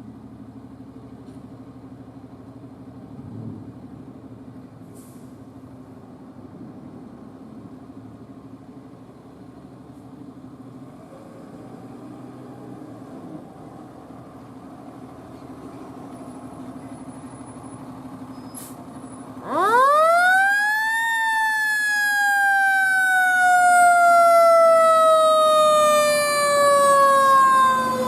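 A fire truck's siren winds up sharply to a high pitch about two-thirds of the way in, then slowly falls in pitch. Before it there is only a low, steady vehicle engine rumble.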